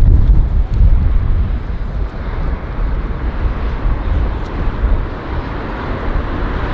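Strong gusty wind buffeting the microphone: a deep, uneven rumble, loudest in the first second or so, over a steady rushing noise.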